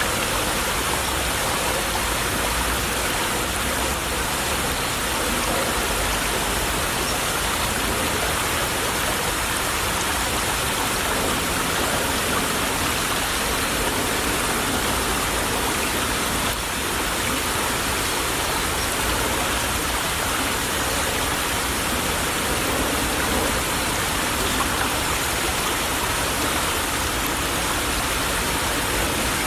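A small stream trickling and babbling, a steady, even rush of running water.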